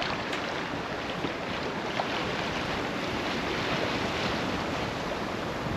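Steady rush of water along a sailboat's hull while under sail, with wind on the microphone.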